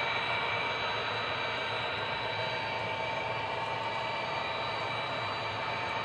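Model train running on a layout: two locomotives pulling a long string of boxcars, giving a steady whirring hum with a few constant whining tones.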